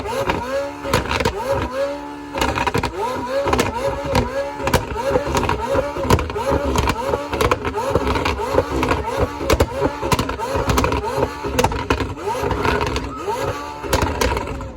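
A car engine revved in quick repeated throttle blips, its pitch rising and falling two or three times a second, with sharp pops scattered throughout.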